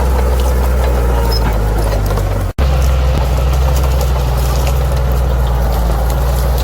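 Bulldozer's diesel engine running with a steady low drone. The sound cuts out for an instant about two and a half seconds in.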